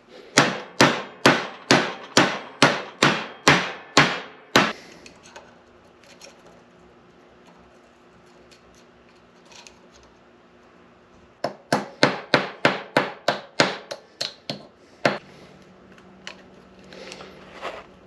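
Hand hammer tapping repeatedly, about two blows a second, in two runs of roughly ten blows with a pause between and one last blow near the end: trying to drive a C-clip onto the transfer case input shaft without C-clip pliers.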